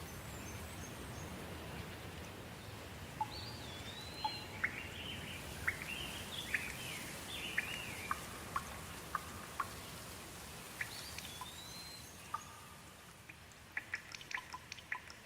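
Soft steady rain, with a bird calling over it in short chirps and rising-and-falling whistles for several seconds and again briefly later. A run of quick sharp ticks comes near the end.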